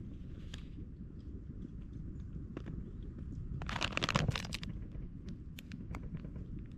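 Small clicks and knocks of camp items and food packages being handled, with a rustle of packaging about four seconds in, over a low steady rumble.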